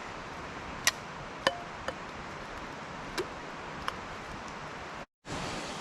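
A handful of short, sharp clicks and taps at irregular intervals, about five, over a steady background hiss, with a brief dropout near the end.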